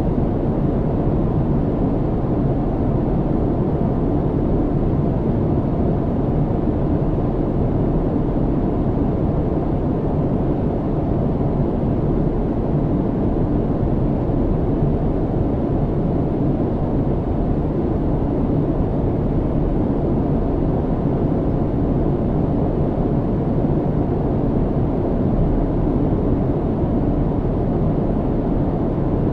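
Airliner cabin noise in flight: a steady low rumble of engine and airflow, unchanging throughout.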